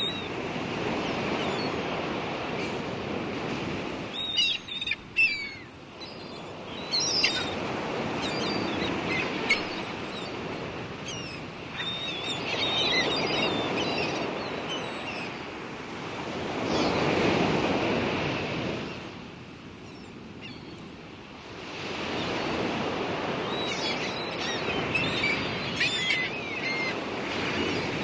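Sea surf washing in and out in slow swells, with birds giving short chirping calls over it several times.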